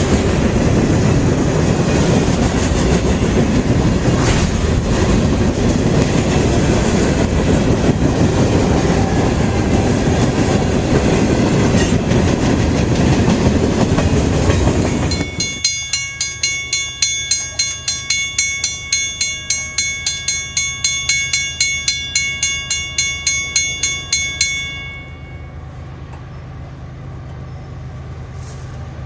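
A train rolling past with steady wheel and rail noise. About halfway through it cuts off sharply, and a railroad crossing bell rings about three strokes a second for some nine seconds, then stops, leaving a low hum.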